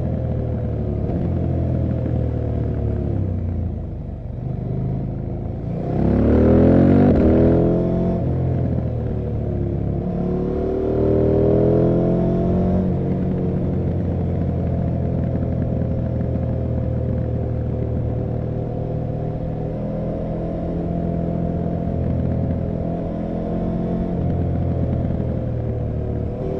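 KTM 790 Adventure R's parallel-twin engine running under way, close-miked near the exhaust. It revs up about six seconds in and again around eleven seconds, and otherwise pulls at a steady pace.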